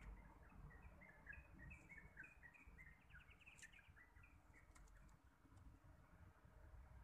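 Faint bird song: a run of short chirping notes with a quick trill in the middle, dying away after about four seconds, over a low rumble of light wind on the microphone.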